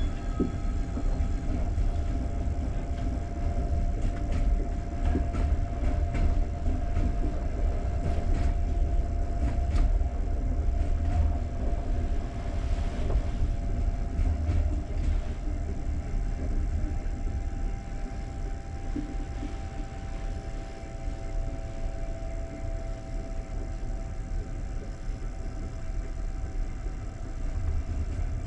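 Passenger train carriage rolling into a station: a steady low rumble of wheels on track, with a few clicks in the first third and a faint whine that drifts slightly lower as the train slows.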